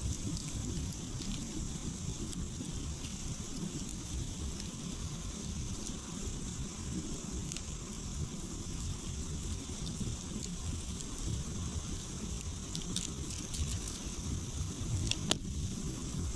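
Wood campfire crackling, with scattered small pops and one sharper crack near the end, over a low steady rumble.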